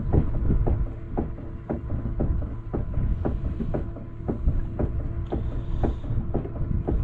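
Knocks about twice a second, like small waves slapping a boat hull, over a steady low motor hum.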